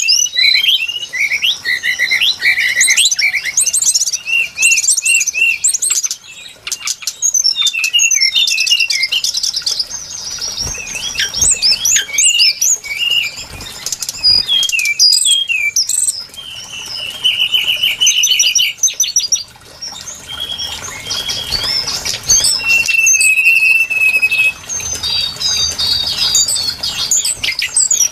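Brown-chested jungle flycatcher singing: a dense, unbroken stream of varied high whistles, chirps and short trills, with a couple of longer held notes in the second half.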